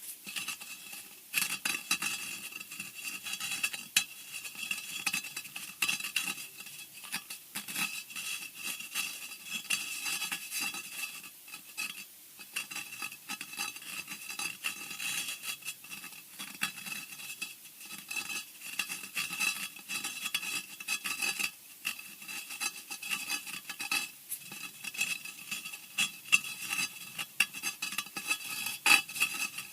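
Horror-style scratching sound effect: continuous, irregular scratching and scraping, dense with rapid short scrapes and sharper clicks.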